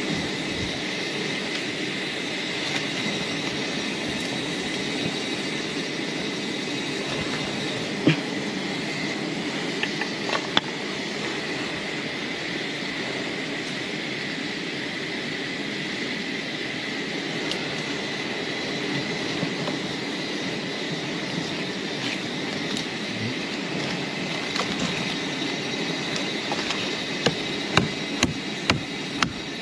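Steady, dense buzzing of a swarm of wild bees around their hive, with a thin high insect drone over it. Near the end, sharp chopping knocks begin in a quick series.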